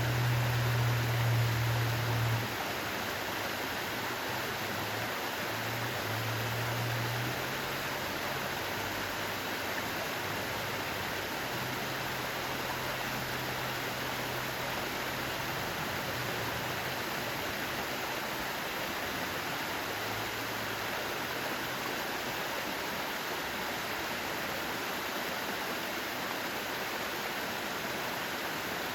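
Mountain stream water rushing steadily over rocks. A low hum sits under it, loudest for the first two seconds or so, then fading in and out until about two-thirds of the way through.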